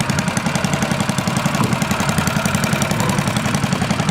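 A small boat's motor running at idle with a steady, rapid throb.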